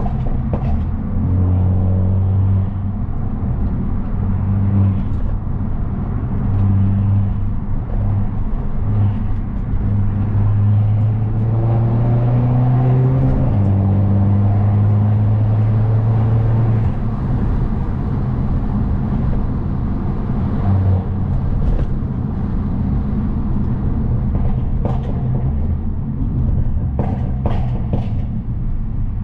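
Turbocharged, straight-piped Mercedes-Benz C250 engine droning under way, its note holding and shifting with the throttle, rising for a few seconds about halfway through and then dropping back. A few sharp clicks near the end.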